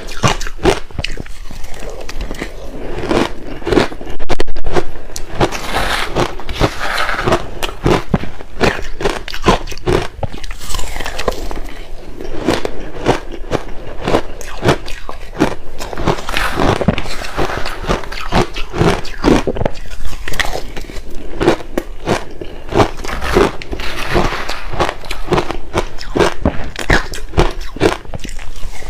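Close-miked chewing and biting of crushed ice with passion fruit: a dense run of sharp, crackly crunches. A louder crunch burst comes about four seconds in.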